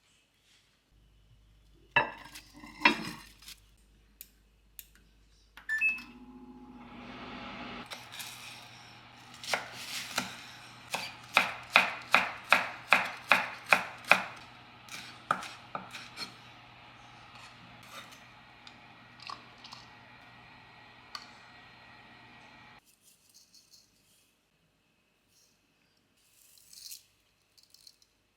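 Kitchen food-prep sounds: a run of quick knocks, about two to three a second, over a steady appliance hum that cuts off suddenly near the end.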